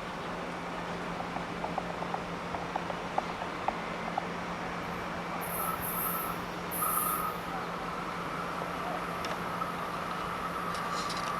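Railway station ambience with a steady low hum, light ticking in the first few seconds and a thin high whine that comes in about halfway through and holds, as a train draws near.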